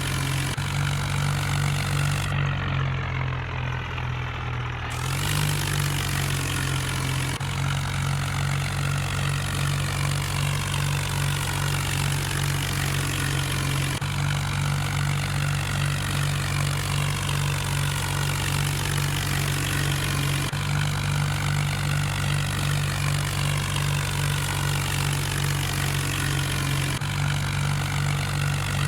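Tractor engine running steadily with a deep, even drone, its tone shifting slightly at a few abrupt edits.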